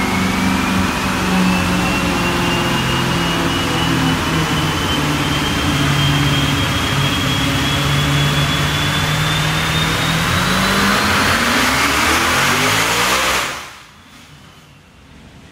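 Turbocharged, methanol-burning 380 cubic-inch small-block Chevy V8 with mechanical injection, run under load on an engine dyno during a full-throttle pull. A steady engine note carries a high whine that climbs slowly in pitch, and the revs rise quickly over the last few seconds. About 13 seconds in it cuts off abruptly, leaving only a faint steady background hum.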